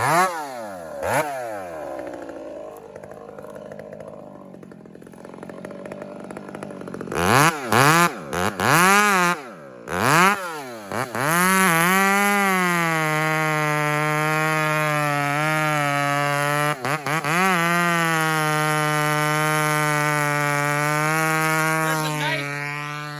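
Two-stroke chainsaw blipped up and down in a string of quick revs, idling quietly for a few seconds in between. From about halfway it is held wide open at a nearly steady high pitch with slight dips under load as it cuts, then winds down near the end.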